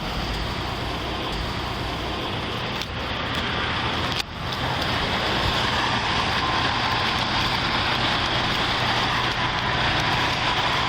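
Steady hiss of idling vehicles and road noise, with a short click about four seconds in and slightly louder after.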